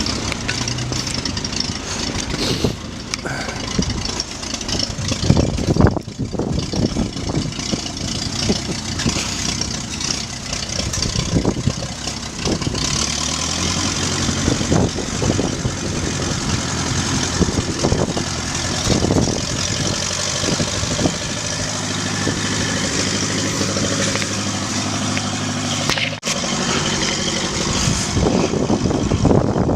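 Tractor engine running, uneven at first and then holding a steady, even note from about halfway.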